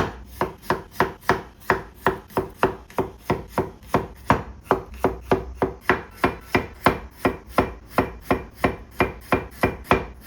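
Kitchen knife slicing solo garlic into thin slices on a cutting board, in a steady rhythm of about four strokes a second.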